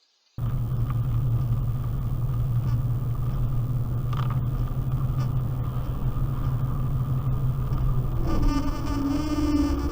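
Steady low rumble and hum of a vehicle in motion, as picked up by a dashcam, cutting in suddenly about half a second in. Near the end a higher pitched tone joins it for about a second.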